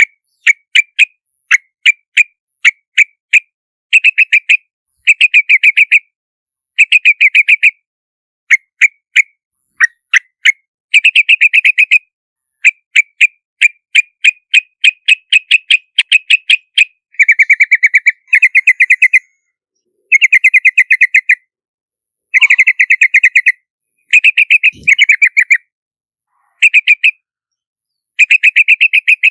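Yellow-vented bulbul calling: bubbly runs of quick chirping notes in short bursts, with brief silent gaps between them. The later bursts are longer and denser.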